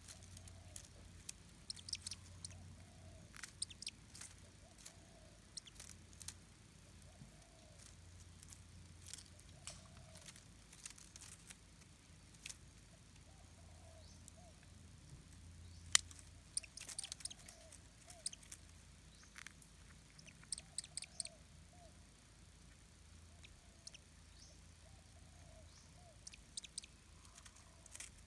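Faint outdoor ambience: a distant bird's short call repeating about once a second, with scattered sharp clicks and ticks, one louder click about halfway through.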